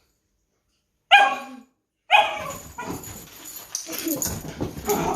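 Dog barking, excited after a bath: a sharp bark about a second in, another about two seconds in, then more barking mixed with scuffling.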